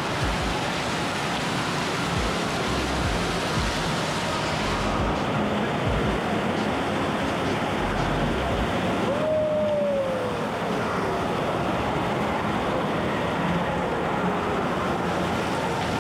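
Steady rushing-water noise of an indoor waterpark. A brief falling tone comes through about nine seconds in.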